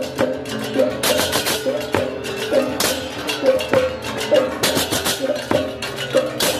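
Balinese baleganjur gamelan playing for the procession: struck bronze gongs ring in a repeating pattern over frequent crashing cymbal strokes and drums.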